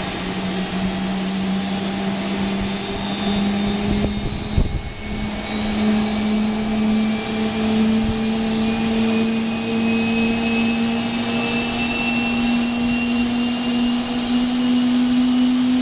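Jet aircraft engines running loud on the ground: a steady whine over a rushing rumble, the pitch rising slowly as the power comes up. A brief thump about four and a half seconds in.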